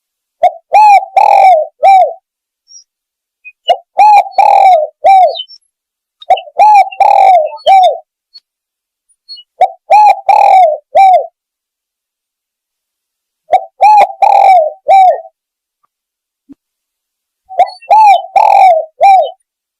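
Spotted dove (tekukur) cooing as a hunting lure call: a phrase of several short coos, repeated six times at intervals of about three to four seconds, loud enough to reach full scale.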